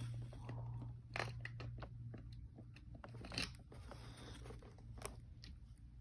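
Scattered small clicks and crackles of a plastic toy train engine being handled and pressed, over a faint steady low hum.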